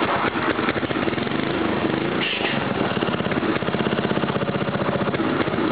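Briggs & Stratton 5 hp single-cylinder four-stroke engine running just after being started, firing in rapid even pulses, with a brief dip about two seconds in.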